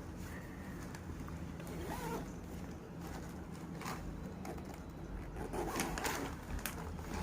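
Faint crinkling and rustling of snack packets and wrapping being handled and torn open, with a few short clicks over a low steady hum.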